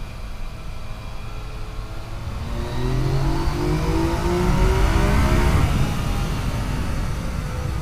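Yamaha FJ-09's three-cylinder engine under throttle, its pitch rising from about a third of the way in and easing off after the middle, over a steady wind rush.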